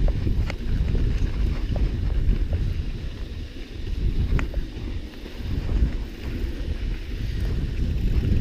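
Wind buffeting the microphone over the low rumble of a mountain bike's tyres rolling along a dirt trail, rising and easing in gusts. A few light clicks sound, about one every second or two.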